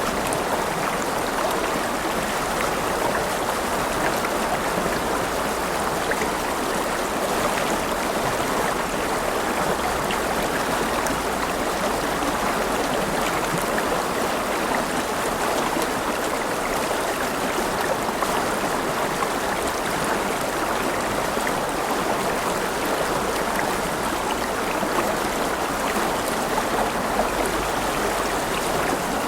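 River water flowing steadily over rocks, a continuous rushing with fine splashing and gurgling.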